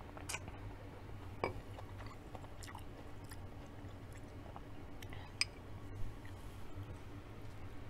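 Close-up chewing of a mouthful of soup and bok choy greens, with a handful of sharp clicks, the loudest about one and a half seconds in, over a low steady hum.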